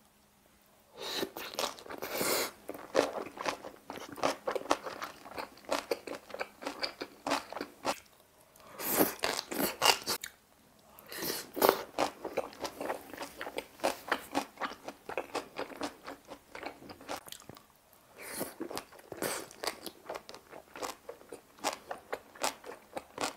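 Close-miked chewing of boiled pork wrapped in napa cabbage kimchi: crisp, wet crunches of the cabbage in bouts with a few short pauses.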